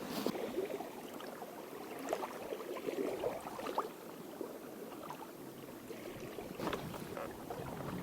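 Faint sounds at the water's edge: light water lapping with scattered small clicks and knocks, one a little sharper near the end.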